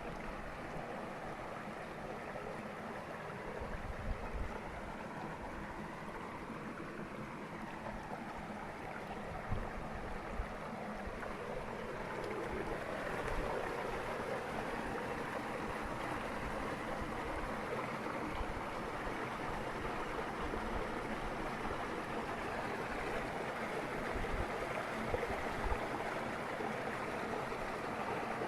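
Derna River flowing: a steady rush of moving water, growing a little fuller from about thirteen seconds in.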